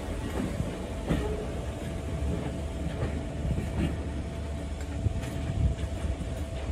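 Train running past on the rails: a steady heavy rumble with a faint constant hum over it and occasional sharp clicks from the wheels and track.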